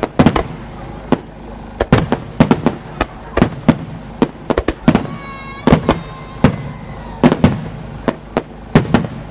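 Aerial fireworks shells bursting in a rapid, irregular string of sharp bangs, often several a second, with a brief high tone about five seconds in.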